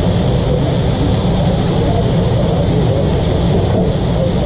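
Steady, loud machine drone with a hiss over it, from the food truck's running equipment, with no breaks or changes.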